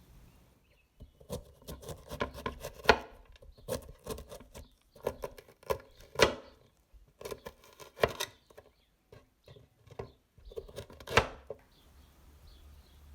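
Knife chopping vegetables: quick, irregular strokes in several runs with short pauses, starting about a second in and stopping near the end.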